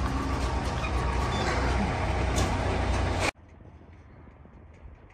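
Steady outdoor noise with a low vehicle-engine rumble, cutting off abruptly a little over three seconds in to a much quieter background with faint scattered ticks.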